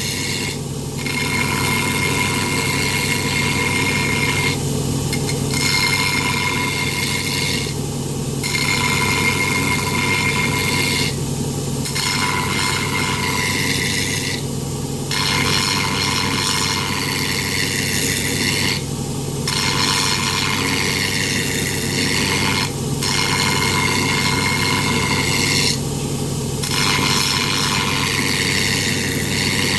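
Power grinder rough-grinding an aluminum boat propeller: a steady motor hum under a harsh grinding noise. The grinding breaks off briefly every three to four seconds as the tool lifts off the metal, while the motor keeps running.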